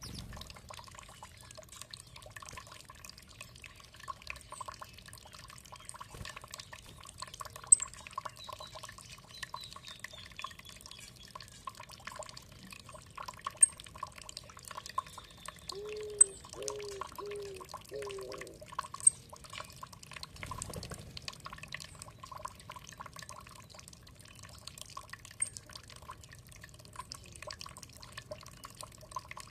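Water dripping and trickling steadily, with many small drip clicks. Birds call over it: faint high chirps, and a series of four short low notes a little past halfway.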